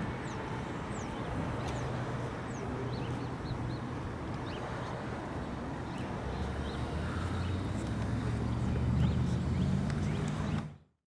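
Low, steady hum of a train at the station, growing stronger in the second half, with small birds chirping over it. The sound cuts off abruptly just before the end.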